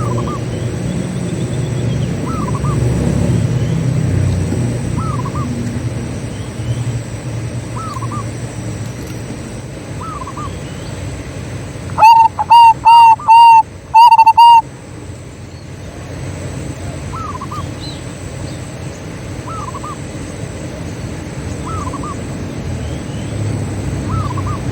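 Zebra doves (perkutut) calling. About halfway through one dove gives a loud, close run of about six quick cooing notes. Fainter call notes repeat every two to three seconds over a low steady rumble.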